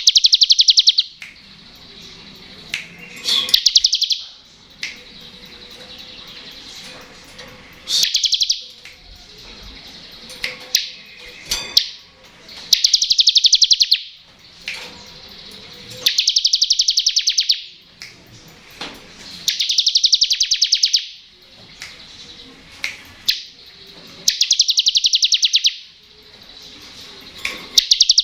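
Bar-winged prinia (ciblek) singing its buzzing 'ngebren' song: rapid, dry trills about a second long, repeated every three to four seconds, with short sharp chips between them.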